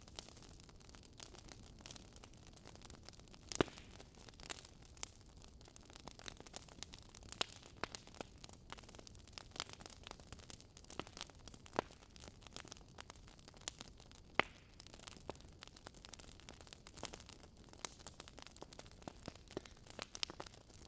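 Wood fire in a fireplace crackling: irregular sharp pops and snaps over a soft hiss, with two louder pops, one about three and a half seconds in and one about two-thirds of the way through.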